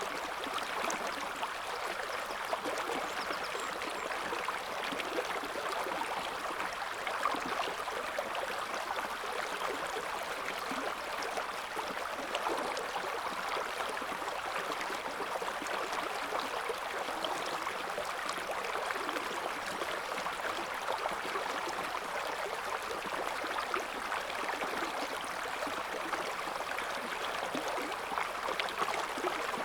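River water flowing over stones: a steady rushing babble with fine splashing and gurgling.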